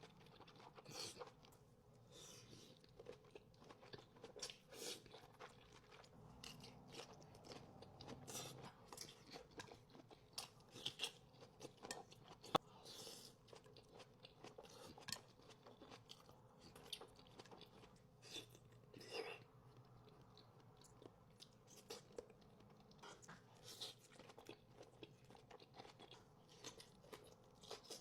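Close-miked chewing and biting of crunchy food, with irregular sharp crunches and crackles throughout.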